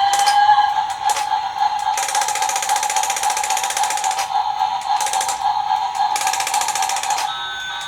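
Battery-powered toy train running: its small geared mechanism makes a rapid ratcheting tick, over a steady high-pitched tone that stops near the end.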